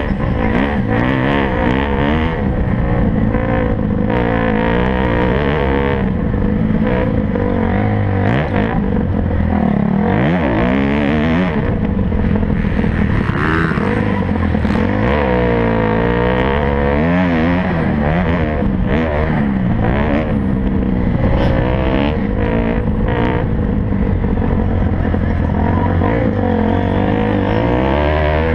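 Several motocross bikes' engines running at race pace. They rev up and down, with overlapping pitches rising and falling throughout.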